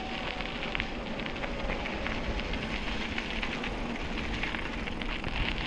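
Bicycle tyres rolling over a gravel towpath: a steady gritty rustle dotted with many small ticks.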